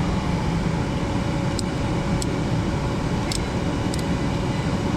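Gas furnace running: the blower and inducer motor give a steady low rush of air with a faint motor hum. A few light clicks are scattered through it.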